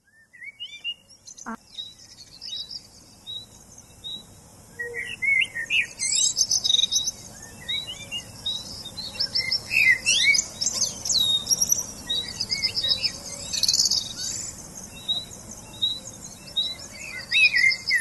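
Several songbirds chirping and singing, with one short high note repeated about twice a second under varied chirps and quick trills.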